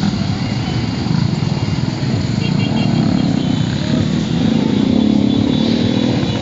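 Many motorcycle engines running together as a large group of motorcycles rides by. One engine revs up near the end, and a few short high beeps sound about halfway through.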